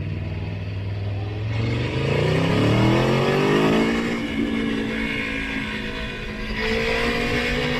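Motorcycle engine running steadily, then revving up as it accelerates for about two seconds from a second or so in, and holding a higher, steady pitch afterwards.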